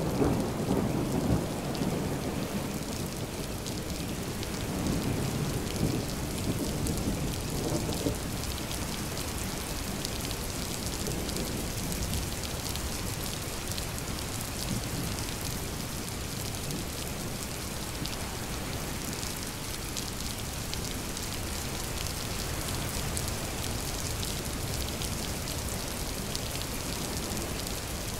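Steady rain falling in a forest, with a low rumble of thunder that dies away over the first eight seconds or so, leaving the even hiss of the rain.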